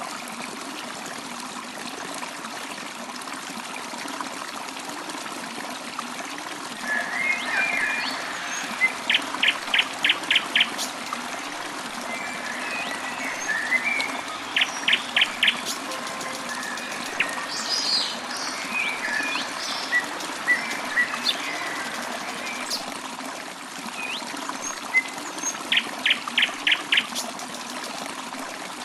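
A steady trickle of running water, like a small stream, with birds calling over it from about a quarter of the way in: scattered chirps and three quick runs of sharp repeated notes.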